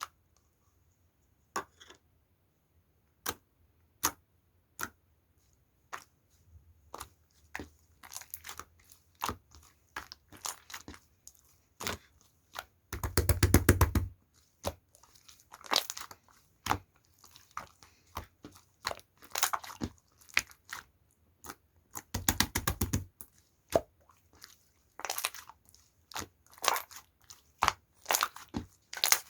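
Yellow slime being pressed and played with by hand, giving sharp clicks and popping crackles. A few single clicks at first, then denser runs of pops, the loudest about halfway through and again about three-quarters of the way in.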